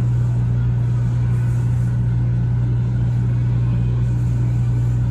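Steady low rumble and hum of a moving shinkansen, heard from inside the passenger cabin.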